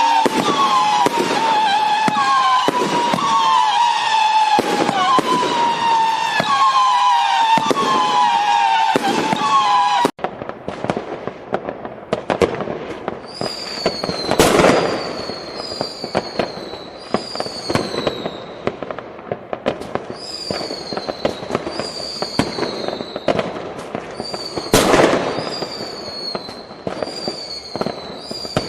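Fireworks and firecrackers going off: dense crackling with two louder bangs. A repeating falling tone is heard throughout, loud for the first ten seconds or so; the sound then drops suddenly, and the tone carries on higher and fainter over the crackle.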